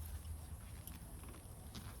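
Faint scraping and a few soft ticks of dry soil being dug through while searching for sweet potatoes, over a steady low rumble.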